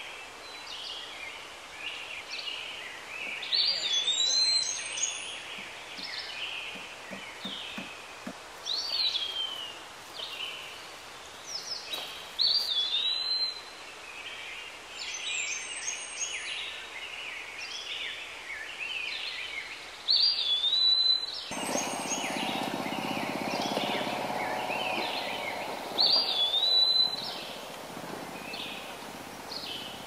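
Wild birds singing and chirping, one song phrase recurring every few seconds among other calls. About two-thirds of the way through, a steadier low rushing background comes in under the birdsong.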